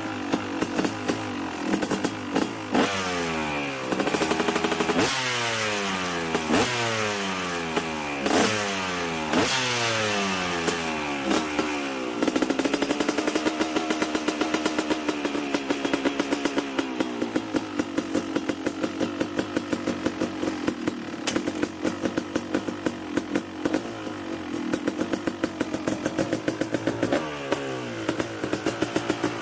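KTM 250 SX two-stroke dirt bike engine, breathing through an FMF Gnarly expansion chamber and Shorty silencer, being revved with repeated throttle blips that each fall quickly back. About twelve seconds in it is held at higher revs for several seconds, then drops to a popping, uneven two-stroke idle.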